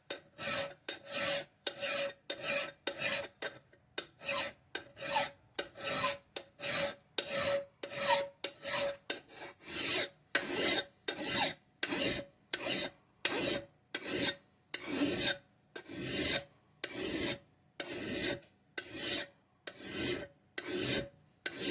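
A steel hand file rasping across an axe blade's edge in steady back-and-forth strokes while the bevel is sharpened. The strokes come about two a second at first and slow a little in the second half, with a faint ringing tone under the strokes in the first half.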